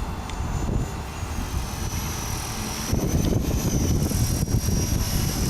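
ESKY Honey Bee King 4 electric RC helicopter in flight: a high motor and rotor whine that dips slightly in pitch about two seconds in. Wind buffets the microphone with a low gusting rumble, heavier from about three seconds in.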